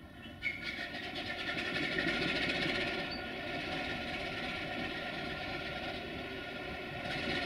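Train running through on the rails: a steady rolling rumble of wheels with some engine tone. It grows louder about half a second in.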